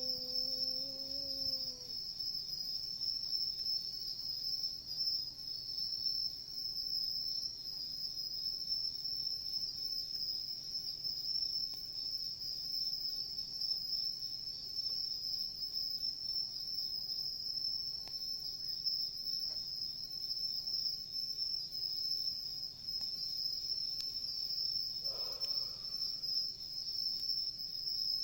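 A continuous high-pitched chorus of insects chirping steadily, the sound of autumn night insects.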